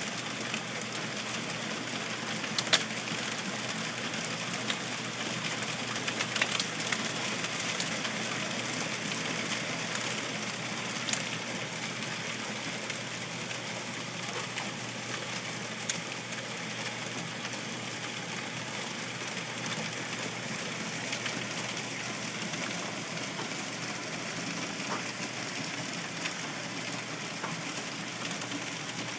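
Steady downpour of heavy rain and hail, with a sharp crack of a hailstone striking a hard surface every few seconds, the loudest about three seconds in.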